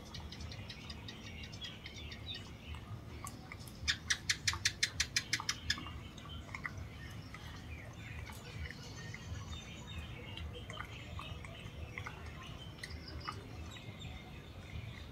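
Small birds chirping throughout, with a fast run of about a dozen sharp, evenly spaced clicking notes about four seconds in, the loudest thing heard.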